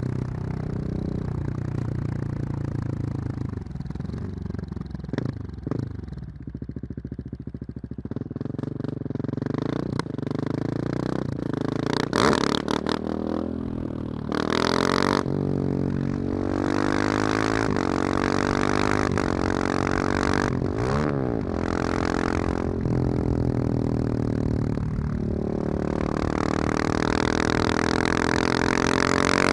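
Husqvarna 701's single-cylinder engine through a loud aftermarket Wings exhaust, the revs falling off on a long slowdown, then rising and dropping repeatedly as the bike accelerates and shifts.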